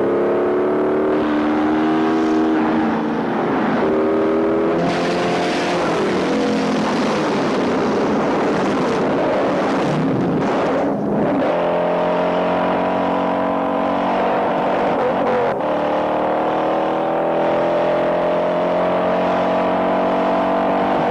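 Big-block V8 muscle-car engines at full throttle in a high-speed chase: the engine note climbs and drops back at each upshift several times early on, then rises steadily for the last ten seconds. In the middle a rushing spray of gravel and dirt swamps the engine as a car runs off the road edge.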